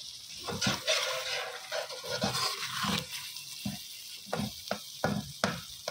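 Tomato masala sizzling in oil in a metal pan, stirred with a steel slotted spoon. The hiss is stronger in the first half; after that, quick scrapes and knocks of the spoon against the pan take over.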